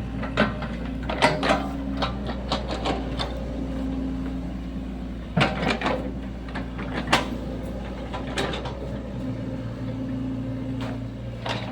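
Sany SY75 mini excavator's diesel engine running steadily as it digs a trench, with several sharp knocks and clanks from the working bucket, the loudest about one, five and seven seconds in.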